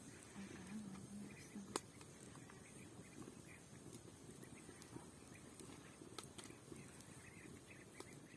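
Faint low clucking of chickens, with scattered small chirps and a sharp click a couple of seconds in.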